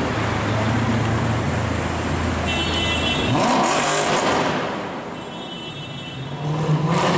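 Car engine and exhaust in traffic: a steady low engine drone, then a loud car passing with its pitch sweeping about halfway through, and another loud swell near the end.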